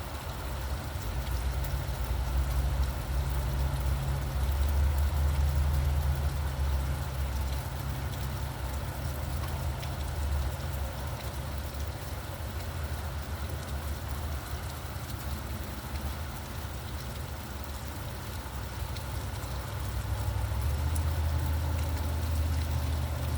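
Steady rainfall with a low rumble of road traffic underneath; the rumble swells twice, early and again near the end, as vehicles pass.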